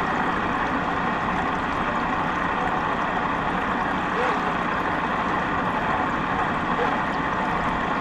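A boat running steadily on the water: an even rushing noise that holds the same level throughout.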